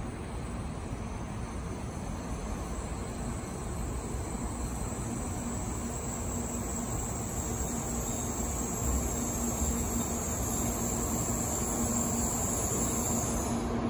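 A Shinkansen train pulls slowly into the platform with a steady rumble that grows gradually louder. A low steady hum joins about five seconds in, and a high thin whine runs along above it until it stops just before the end.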